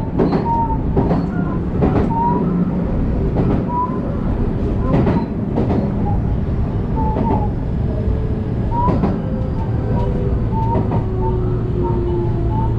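Electric express train running on the rails, heard from inside the car behind the cab: a steady low rumble with wheels clicking over rail joints at irregular intervals. Near the end a faint tone slowly falls in pitch.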